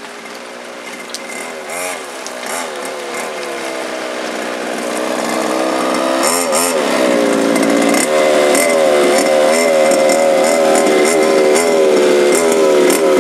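Small two-stroke petrol engines of 1:5-scale radio-controlled cars buzzing, pitch rising and falling with the throttle, growing steadily louder as the cars come close.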